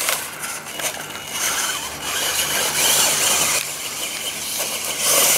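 ECX Torment 1/10 electric two-wheel-drive RC short course truck driving over dirt and brush: a noisy rush of motor and tyres on the ground, with scattered short knocks.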